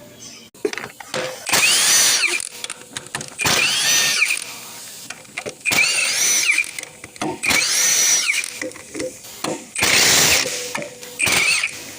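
A handheld power tool driving a bolt or nut in short trigger pulls, about six of them, its motor pitch rising and falling with each pull.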